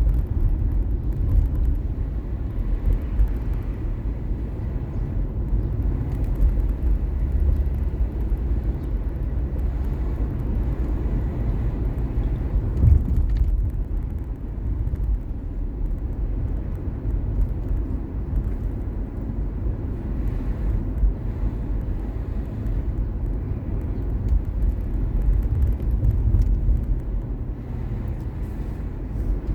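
Steady low rumble of car road and engine noise heard from inside a moving car, with one brief louder low thump about 13 seconds in.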